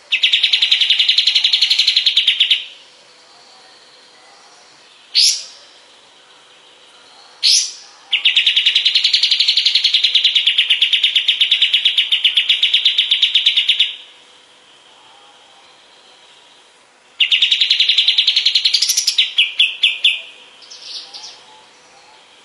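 A kapas tembak bird singing in long, rapid-fire trills, the first and second several seconds each. Between them come two short rising whistles, and the last trill breaks into a few stuttered notes.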